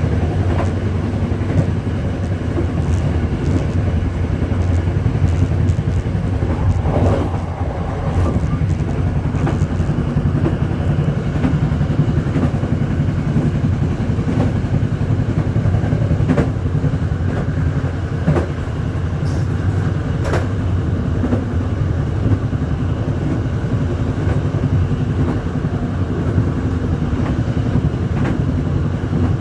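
Steady running noise of a moving vehicle: a continuous low engine drone with a few faint steady tones above it, and scattered short clicks and knocks.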